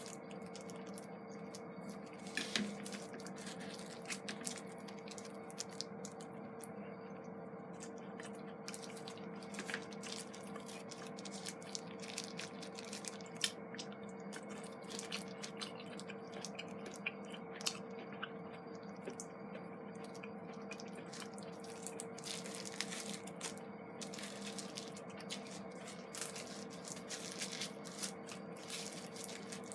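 Wood campfire crackling, with irregular sharp pops and snaps that come thicker toward the end, over a steady low hum.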